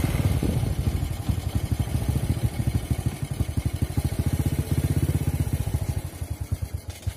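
Motorcycle engine running at low speed with a rapid, even pulsing beat, easing off shortly before it cuts off suddenly near the end.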